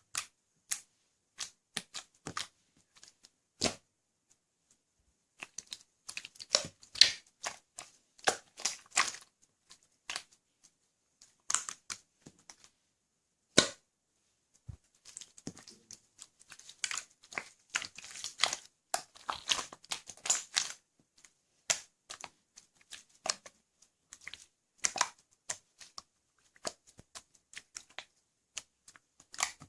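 Irregular small clicks and taps, with two stretches of denser crinkly rustling.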